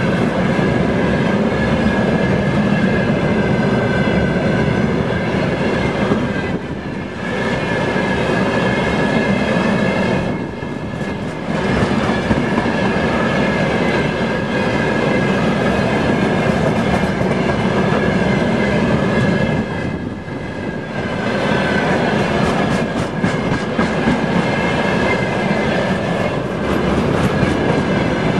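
Railway tank wagons of a freight train rolling past close by: steady loud rumble and clatter of wheels on the rails, with a thin steady high ring from the wheels. The noise dips briefly three times.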